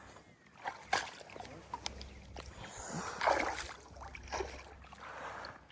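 Shallow water splashing and sloshing in a few separate bursts, with a sharp click about a second in.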